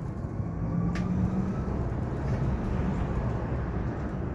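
Hyundai Elec City 2 electric bus driving, heard inside the cabin: a steady low road and tyre rumble with a faint electric-motor whine over it. There is a single short click about a second in.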